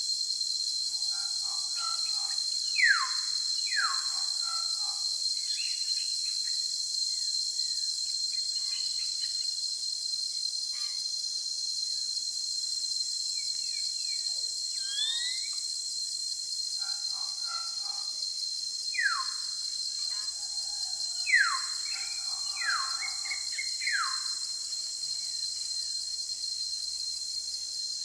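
Steady high-pitched insect drone, crickets or cicadas, with a bird repeatedly giving short falling whistled calls: a pair about three seconds in and a run of four later on.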